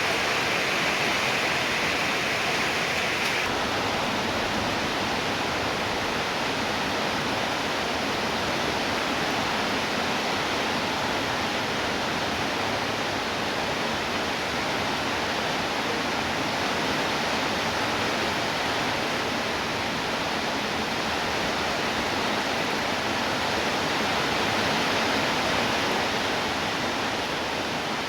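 Heavy rain falling as a steady, dense hiss. An extra higher hiss in the first few seconds stops abruptly about three seconds in.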